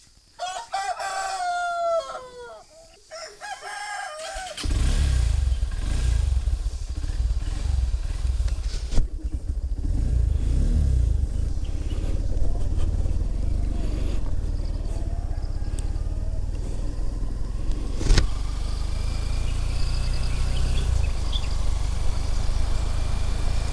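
A rooster crows over the first few seconds. About four and a half seconds in, a motorcycle engine suddenly comes in and runs steadily to the end, with one sharp click near the end.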